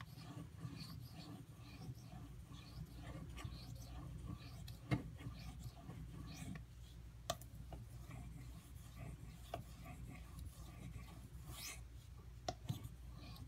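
An AUS-8 steel tanto knife blade being drawn in light strokes during hand sharpening, giving soft scraping with a few sharp clicks, over a steady low hum.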